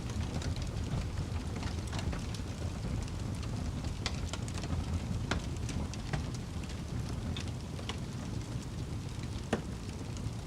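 Wood fire crackling in a fireplace: a steady low rumble of burning with irregular sharp pops and snaps, one louder pop about nine and a half seconds in.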